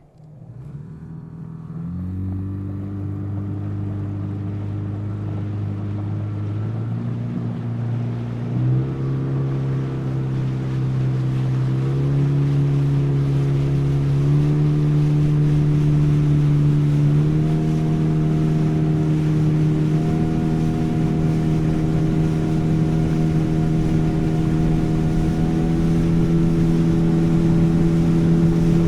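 Motorboat engine coming in and being throttled up in several steps, its pitch rising with each one, then running steadily at speed.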